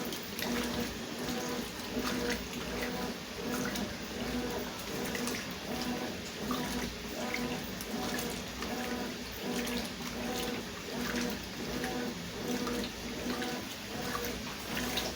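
Consul CWS 12 top-loading washing machine agitating a load of sheets and towels in water: the motor hum comes on in regular pulses, more than one a second, over the churning and sloshing of the water.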